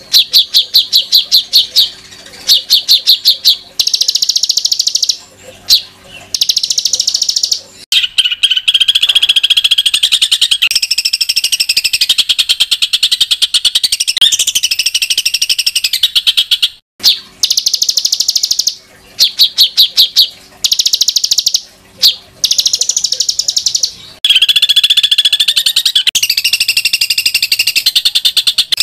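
Songbird song with harsh, rapid rattling trills. It comes first in short bursts of fast repeated notes, then runs on as a long unbroken stretch of dense high chattering. The same sequence starts over about halfway through.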